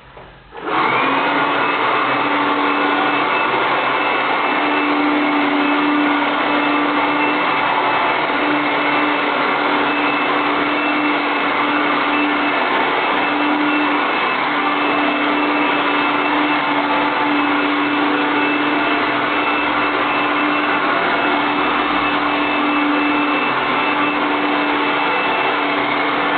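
Automatic vacuum cleaner switched on about a second in, its motor spinning up with a rising whine and then running steadily and loudly, a high whine over the suction noise and a lower hum that comes and goes.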